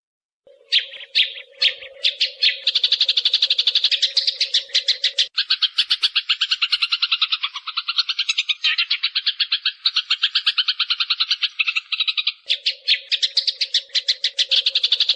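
Sparrows chirping in a fast, dense, unbroken chatter that starts about half a second in: a sparrow decoy call played to lure sparrows for trapping. A low steady hum sits under the chatter for the first few seconds and again near the end.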